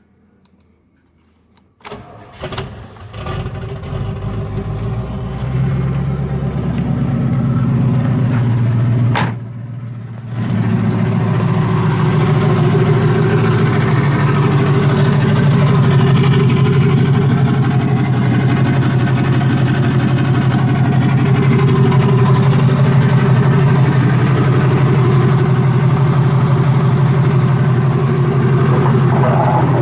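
Turbocharged 454 big-block V8 starting up about two seconds in, building unevenly over several seconds, dipping briefly about nine seconds in, then settling into steady running.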